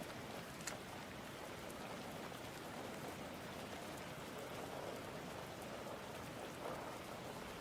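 Steady rain from a nor'easter, a faint even hiss.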